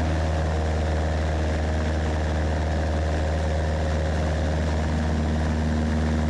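Cessna 172S four-cylinder Lycoming engine and propeller running steadily as the nose is pitched up to set up a power-on stall.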